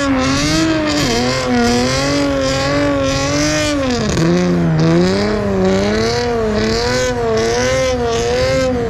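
Car engine held at high revs, the throttle working it up and down in a wavering pitch, with one deeper dip about four seconds in.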